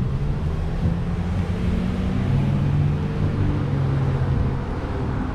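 City street traffic, with a motor vehicle's engine humming past over a low steady rumble; the hum is strongest from about two to four and a half seconds in.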